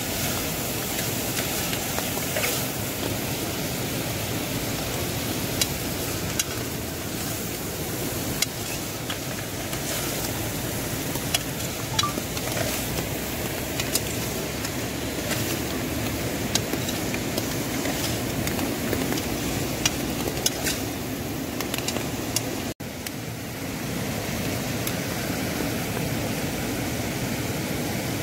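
Chopped onions frying in oil in an aluminium pot on a portable butane gas stove: a steady sizzle with scattered crackles and pops, and a spoon stirring in the pot. The sound drops out for a moment about three-quarters of the way through.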